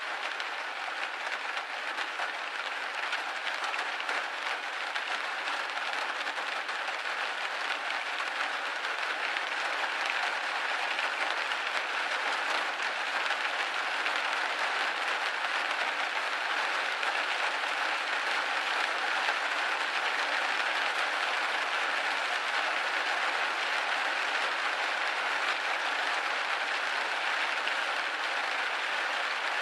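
Rain hitting a window pane: a dense, steady hiss of many small drops with hardly any low end.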